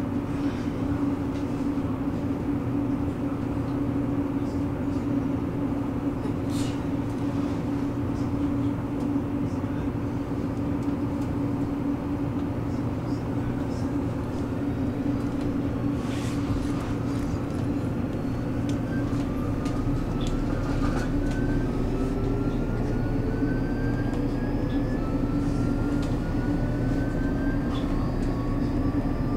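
Electric commuter train heard from inside the carriage: a steady low hum and rumble with a few knocks. From about halfway, faint motor whine slides upward again and again in steps as the train gathers speed after pulling out.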